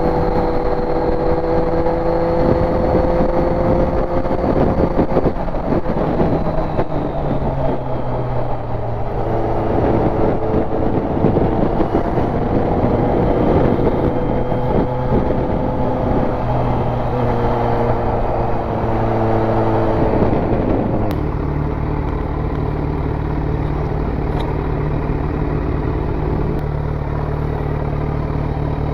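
Inline-four motorcycle engine pulling uphill through the gears, its pitch climbing and then dropping at each shift, over wind noise. About two-thirds of the way in it settles into a steady idle as the bike comes to a stop.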